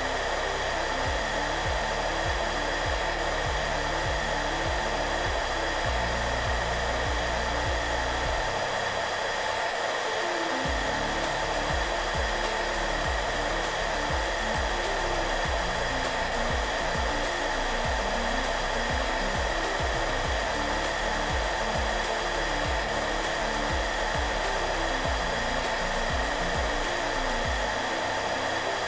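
Hair dryer running steadily on one setting, an even blowing hiss with a constant whine. Soft background music with low notes plays underneath and pauses briefly about nine seconds in.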